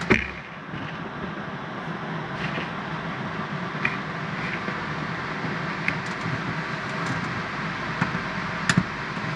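A steady rushing hum, with a few light clicks and taps from hand work as the two screws holding the shower-head wall mount are taken out.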